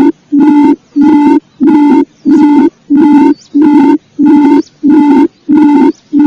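Lure call of the puyuh sawah (paddy-field quail): a low hooting note repeated steadily at about three notes every two seconds, each note short and cleanly separated, with a faint high chirp between some of them.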